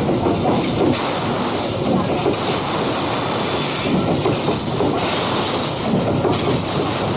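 Babaranjang coal train's open-top wagons rolling past close by: a steady, loud rumble and hiss of steel wheels on the rails.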